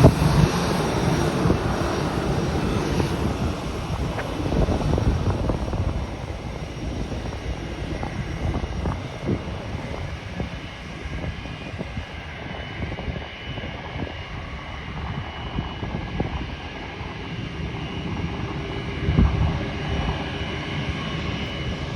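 Jet airliner passing, its engine noise loudest at the start and fading over the first several seconds into a lower, uneven rumble.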